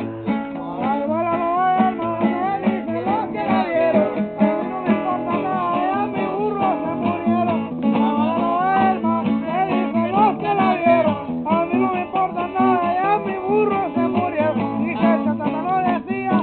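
Acoustic guitar being strummed and played continuously, with a voice singing along in wavering, gliding lines.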